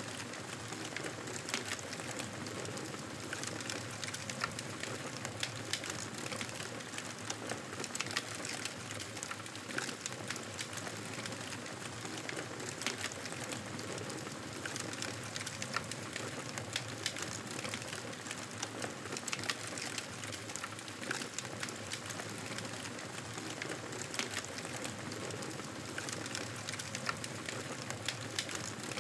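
Campfire burning: a steady hiss with frequent small sharp crackles and pops scattered throughout.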